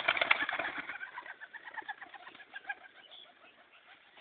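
Birds chirping, many short quick calls that grow fainter toward the end.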